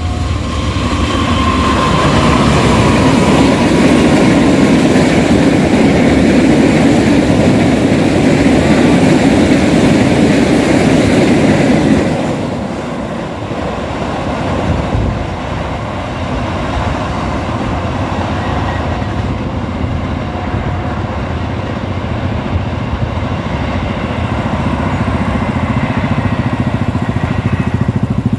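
Diesel locomotive hauling a long train of tank wagons passing close by, engine and wheels on the rails making a loud, steady rumble. About halfway through the sound drops suddenly to a quieter rumble of the receding train, which grows somewhat louder again near the end.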